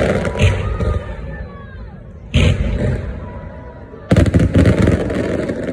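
Fireworks going off in rapid crackling volleys of bangs: one at the start, a short one about two and a half seconds in, and a longer one from about four seconds in, with faint falling whistles in the lulls between.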